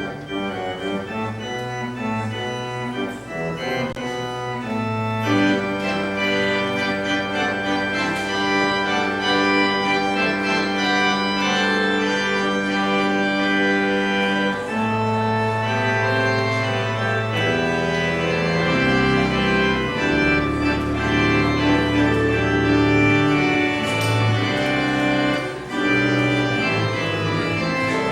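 Church organ playing the postlude after the benediction: sustained chords over long-held bass notes, swelling louder about five seconds in.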